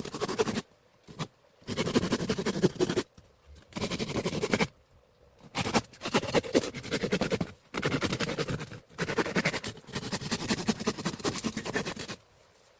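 Repeated bursts of dry scratching and crackling, each a second or more long, broken by short pauses; the longest run comes in the second half.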